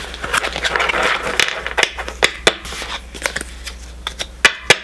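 Pokémon trading cards and their booster-pack wrapper being handled: rustling, then a series of sharp clicks and snaps, the loudest two near the end.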